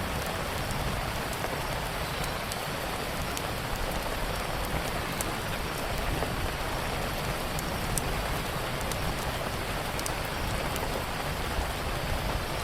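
Steady rain falling on a surface, an even hiss, with a few faint sharp clicks scattered on top.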